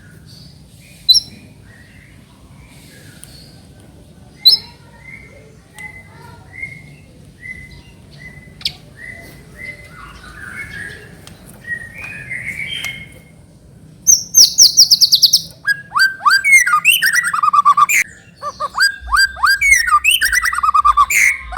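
White-rumped shama singing. It opens with soft, scattered chirps and short whistled notes broken by two sharp ticks. About two-thirds of the way in it bursts into loud full song: a fast high trill, then quick runs of downward-sweeping whistles.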